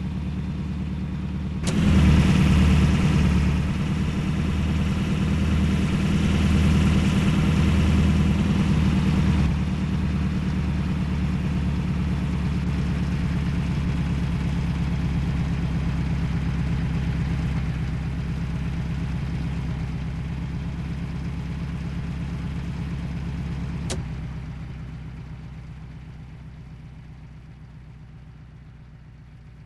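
Heavy loaded truck's engine running steadily with a low, even drone. It gets suddenly louder about two seconds in, eases after about ten seconds, and fades away over the last few seconds after a click.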